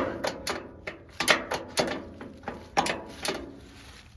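Gearshift of a 1940s McCormick-Deering W4 tractor being worked in and out of gear by hand: a string of irregular metallic clunks and clicks, some ringing briefly, dying away near the end. No engine is running.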